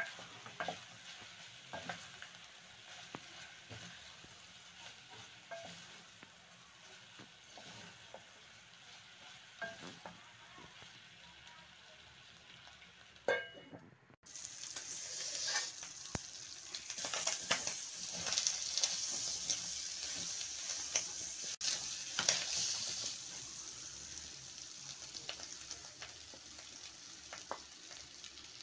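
Tripe and onions frying and sizzling in oil in an aluminium pot, with a wooden spoon stirring and knocking against the pot. About halfway through, the sizzle suddenly becomes much louder.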